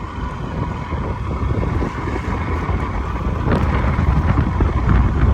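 A small boat's motor running steadily under way, with wind buffeting the microphone. From about halfway through, water splashes and slaps against the hull, growing louder.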